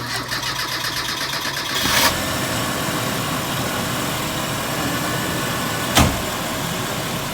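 Car engine starting up and running steadily, with a brief louder swell about two seconds in and a sharp click near six seconds. The engine now runs after a crank-no-start fault was traced to water in the gasoline and a clogged injector.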